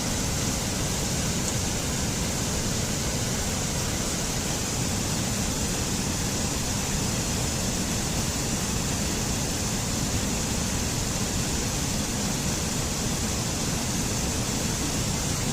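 Steady rushing water, an even unbroken noise like a waterfall or a fast stream.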